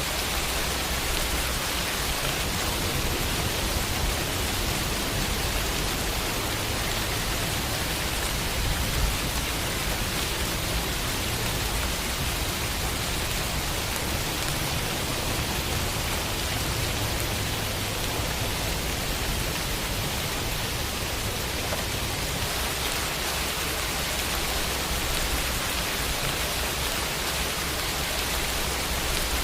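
Steady summer rain falling on a window pane, an even hiss with no breaks.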